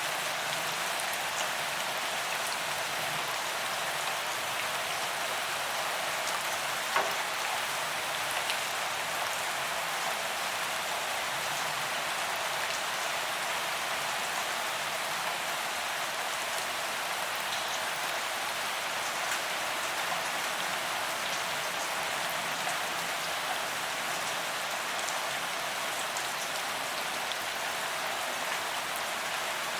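Steady rain falling on a paved promenade, an even hiss of drops on pavement with scattered single drop ticks and one sharper tick about 7 seconds in.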